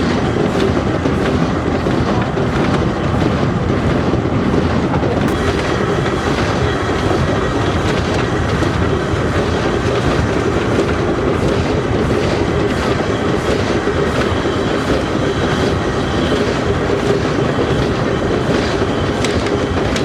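Train running along the track with a steady rumble and a regular clicking of the wheels, about three clicks a second.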